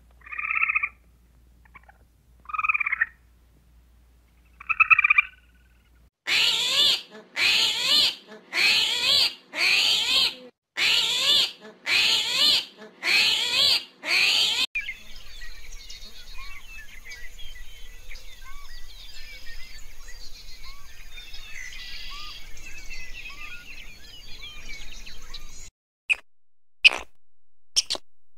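A gray squirrel giving three short calls a couple of seconds apart. Then a run of eight louder calls about a second apart, a steady faint background with small chirps, and a few sharp clicks near the end.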